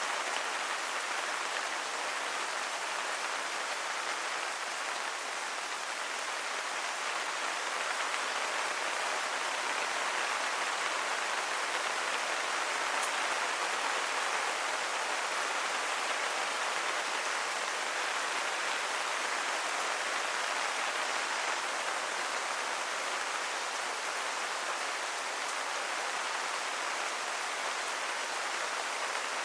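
Steady rainfall hitting surfaces, an even hiss of rain without letup.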